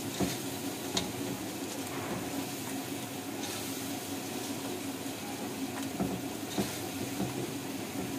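Onion-tomato masala with ground spices sizzling steadily in a pan as it is stirred, with a few light clicks of the spoon against the pan.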